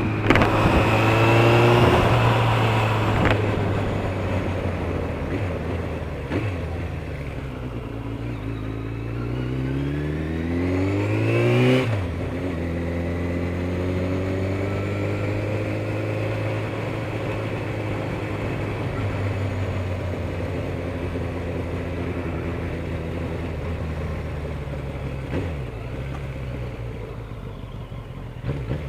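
Suzuki RF900R's inline-four engine under way: the pitch climbs steadily as it pulls through a gear, drops sharply at a gear change about twelve seconds in, then holds at a steady cruise.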